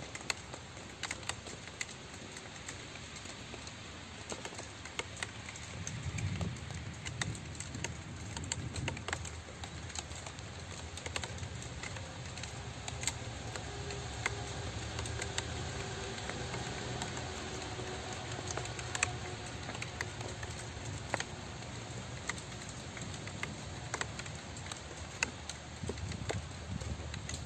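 Steady rain with many sharp drops tapping on a hard surface. A low rumble comes in about six seconds in and continues underneath.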